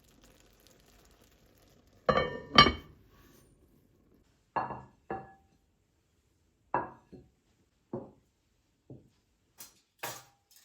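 Dishes and tableware clinking as they are handled: two loud knocks with a short ring about two seconds in, then a string of lighter clinks and taps.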